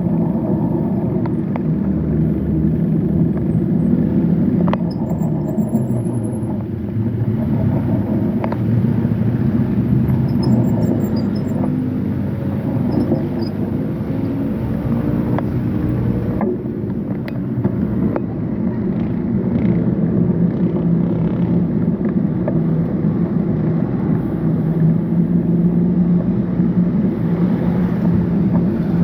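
Road traffic: motor vehicle engines running with a steady low rumble and hum that shifts in pitch in the middle, with a few light clicks.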